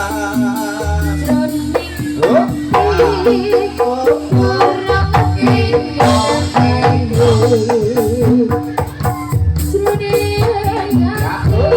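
Loud Jathilan dance music: a Javanese gamelan-style ensemble with drum strokes, repeating metallophone notes and a wavering melody line over them, played through an amplified sound system.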